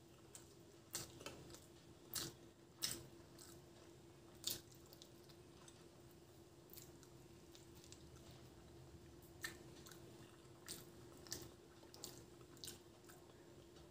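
Faint chewing and hand-eating sounds of rice and curry, with scattered short wet clicks from the mouth and fingers over a faint steady hum.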